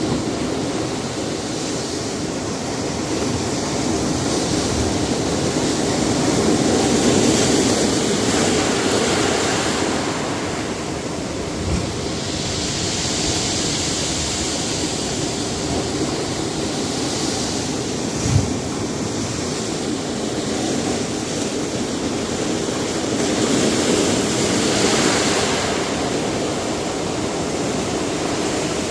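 Sea surf breaking on a rocky shore: a continuous wash of waves that swells and eases every several seconds, with two short low thumps partway through.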